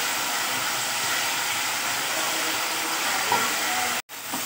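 Onion-tomato masala with ginger-garlic paste sizzling in oil in an aluminium pot as it is stirred with a wooden spoon: a steady frying hiss. It cuts out for a moment near the end.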